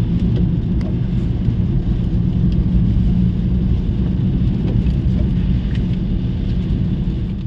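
Steady low road rumble of a car driving.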